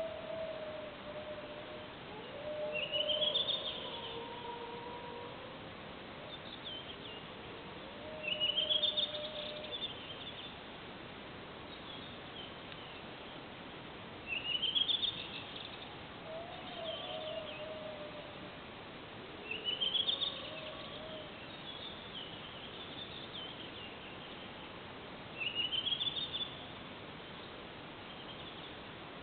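A songbird repeating the same short rising phrase five times, about every five and a half seconds. Underneath, fainter long wavering howls come and go, which the recorder wonders may be wolves.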